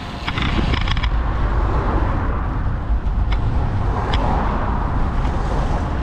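Wind buffeting the camera microphone on a moving road bike: a loud, steady low rumble with a few short clicks.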